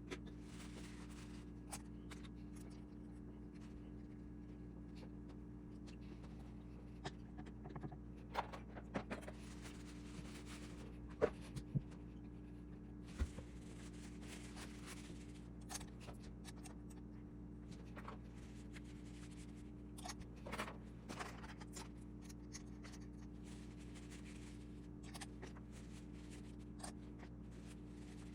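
Scattered light clicks, taps and scrapes of small parts or hand tools being handled, a few sharper knocks among them, over a steady low electrical hum.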